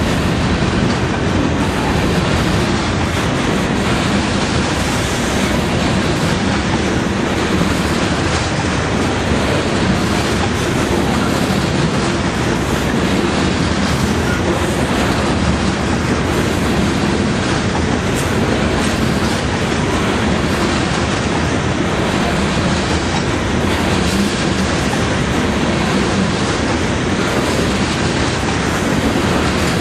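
Coal train's hopper cars rolling past close by: a steady rumble and rattle of steel wheels on rail, with a clickety-clack repeating every second or two.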